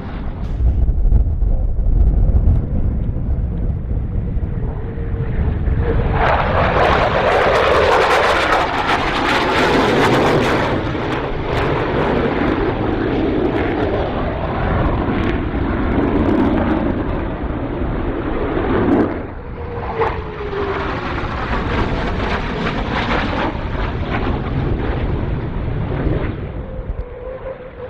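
Twin-engine F-15C Eagle jet flying past at low level. A distant rumble builds into a loud jet roar about six seconds in, peaking a few seconds later and staying strong. After a brief dip it swells again before fading near the end.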